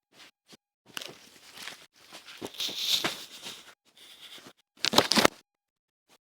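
Rustling, crinkling and scraping handling noises in several irregular bursts, the loudest about two to three seconds in, with a short cluster of sharp clicks and scrapes about five seconds in.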